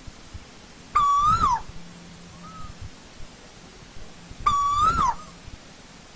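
Asian koel calling: two loud, clear whistled calls about three and a half seconds apart, each a held note that lifts slightly and drops away at the end, with a faint softer call between them.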